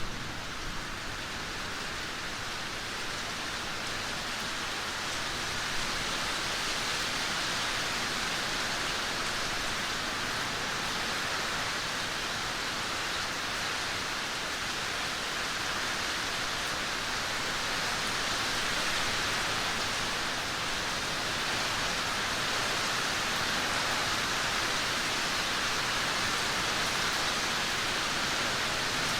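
Heavy rain falling in a steady downpour, a dense, even hiss without breaks.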